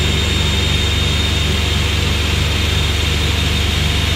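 A car engine running steadily with no revving, with a thin steady high whine over it.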